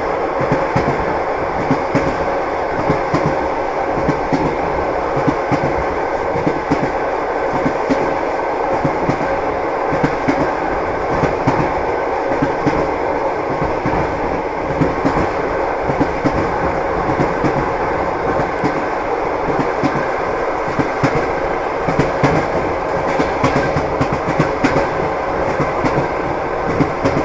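Train wheels clattering rhythmically over rail joints above a steady rolling rumble: the clickety-clack of a moving train.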